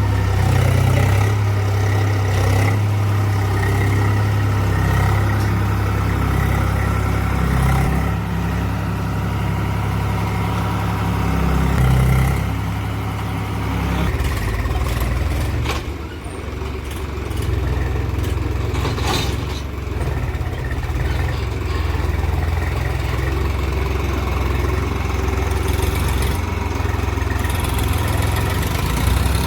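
Tractor's diesel engine running steadily, easing off somewhat about halfway through, with a brief clank a few seconds later.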